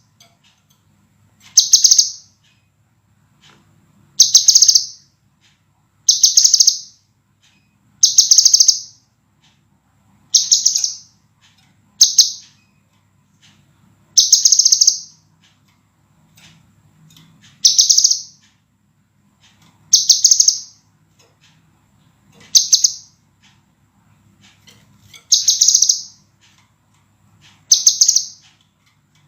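Scarlet minivet (sepah raja) giving a loud, high, clear call, repeated about every two seconds.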